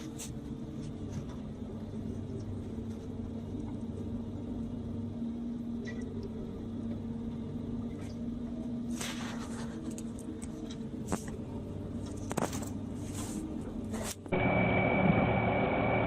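Steady low hum of a running engine, with a few faint clicks. Near the end it cuts suddenly to a louder, noisier machine sound with a thin high whine.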